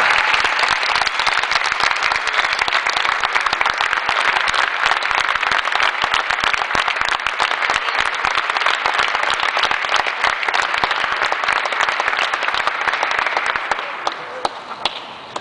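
Crowd applauding: dense, sustained clapping that starts abruptly and fades out near the end.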